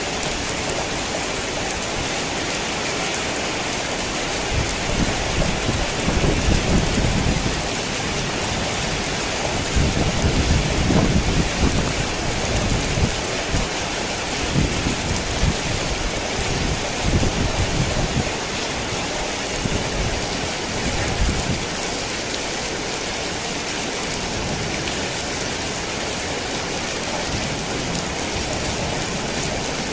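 Heavy rain falling steadily. A long, rolling rumble of thunder builds about five seconds in, is loudest around ten to twelve seconds, and fades out by about twenty seconds.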